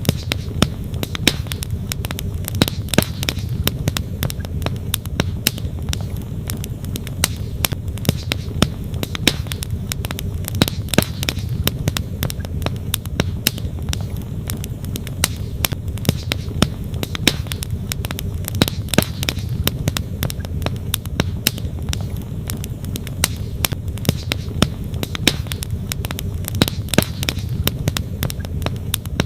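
Wood campfire crackling, with frequent sharp snaps and pops scattered irregularly throughout, over a steady low rush of flowing stream water.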